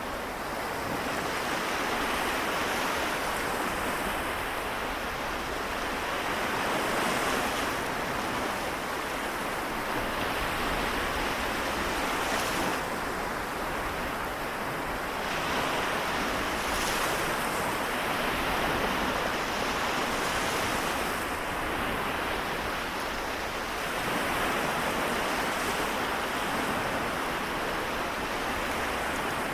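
Small waves washing onto the shore of the Seto Inland Sea, a continuous wash that swells and eases every few seconds.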